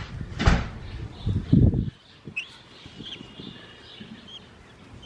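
Budgies chirping softly, a few brief high chirps. In the first two seconds there is a sharp click and some low bumps.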